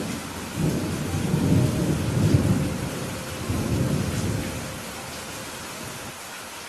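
Steady rain falling, with a roll of thunder that rumbles in about half a second in, swells twice and dies away after about four and a half seconds.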